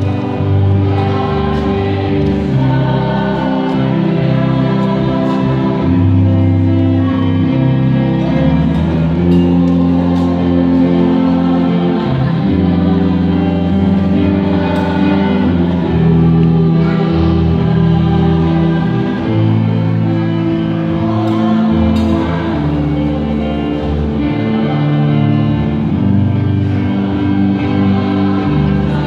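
Church choir singing a hymn with instrumental accompaniment, long held notes moving steadily from chord to chord.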